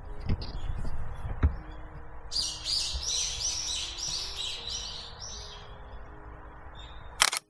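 A songbird singing a quick run of about ten repeated high notes, a couple of seconds in, over a steady low hiss. A sharp click near the end.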